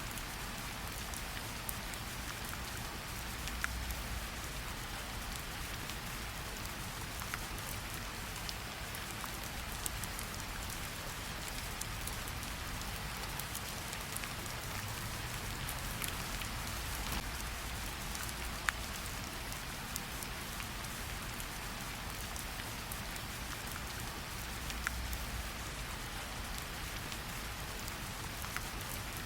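Steady light rain falling on tree leaves, an even patter with scattered sharper drips of single drops.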